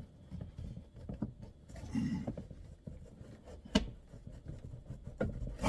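A wooden block knocking and pressing against the inside of a car's thin sheet-metal roof panel to push out a dent: a low scuffing rub, then one sharp knock a little after halfway, and a couple of lighter clicks near the end.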